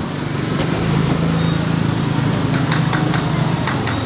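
Small vehicle engine running steadily with an even low hum, and a few light clicks in the second half.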